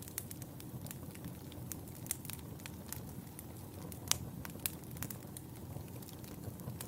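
Wood fire burning in a fireplace: a steady low rumble of flames with scattered sharp crackles and pops, the loudest pop about four seconds in.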